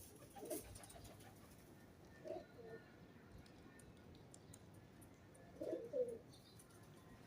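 Pigeons cooing: three short, low coos a couple of seconds apart, over a faint background.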